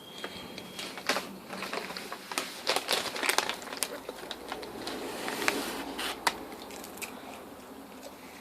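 Close crinkling of a popcorn bag and crunching of popcorn: a run of irregular sharp crackles lasting several seconds, easing off near the end.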